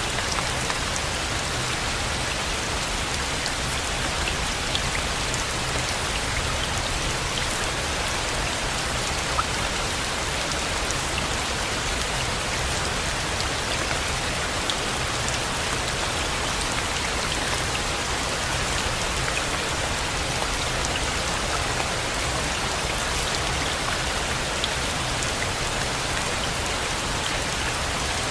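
Steady rain falling on surfaces, an even hiss with scattered small drop ticks over a low rumble.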